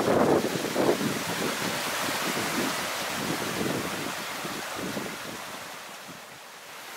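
Shallow rocky brook running over stones: a steady rush of flowing water that fades gradually across the seconds.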